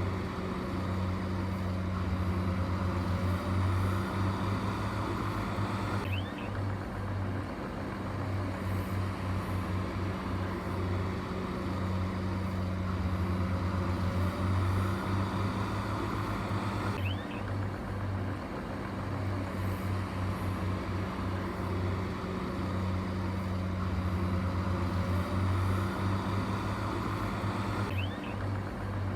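Heavy diesel engine running steadily at a low, even hum, with no revving. The same stretch of sound repeats about every eleven seconds.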